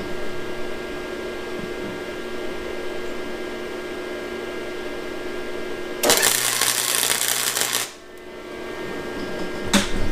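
A steady hum, then about six seconds in a welder arc crackling for just under two seconds as a tack weld is laid, cutting off suddenly; a sharp click near the end.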